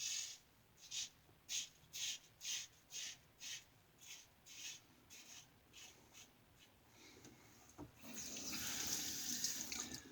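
Short scraping strokes of a 3D-printed injector-style razor with a Schick injector blade cutting through lathered stubble, about two a second, fading out after about six seconds. A tap runs for about two seconds near the end.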